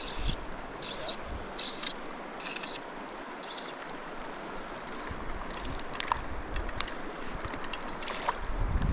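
Mountain stream rushing steadily. For the first few seconds a short high chirp repeats about every three-quarters of a second, and a few light clicks follow later.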